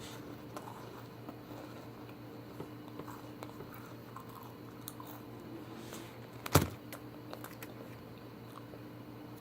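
Quiet room with a steady low electrical hum and faint scattered clicks, then one sharp knock about two-thirds of the way through.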